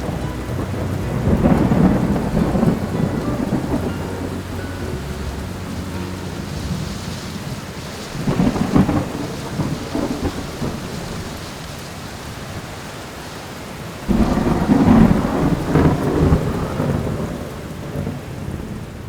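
Thunderstorm: steady rain with three long rolls of thunder, the last one breaking in suddenly about two-thirds of the way through.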